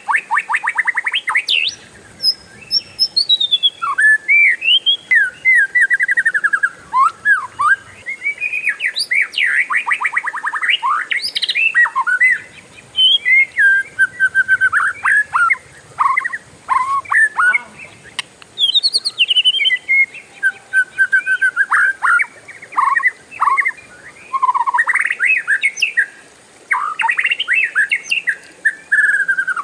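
Oriental magpie-robin (kacer) singing a long, varied song of whistled phrases, with fast rolling trills near the start and again about ten seconds in.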